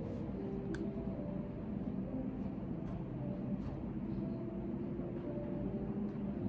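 Shared-office room tone: a steady low background hum with faint shifting tones, and a few scattered soft keyboard clicks.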